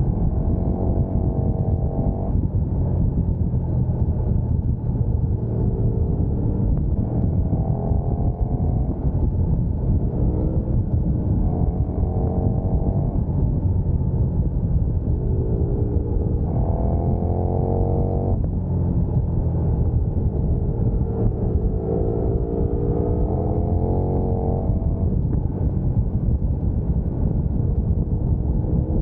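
Sport motorcycle engine under way beneath a heavy rumble of wind on the microphone. Its pitch climbs and then drops back several times as it accelerates and shifts gears.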